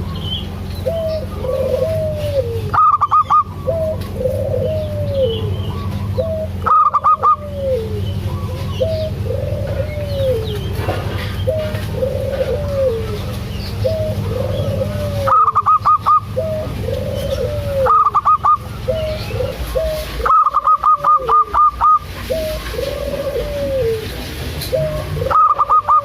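Zebra doves (perkutut) calling: a soft arching coo, each led by a short note, repeats about every second and a half, and every few seconds a loud burst of rapid short higher notes breaks in, several times.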